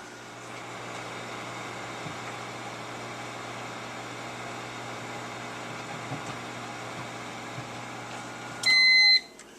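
Microwave oven running with a steady hum, then shutting off near the end as its motor winds down, followed by a loud high beep signalling that the cook time is done.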